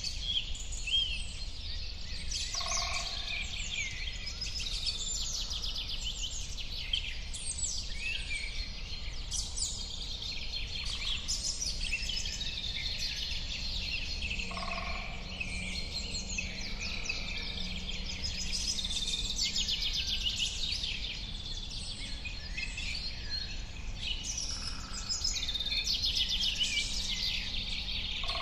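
Many songbirds singing at once, with overlapping high chirps and trills throughout. A lower two-note call sounds three times, about every twelve seconds, over a steady low rumble.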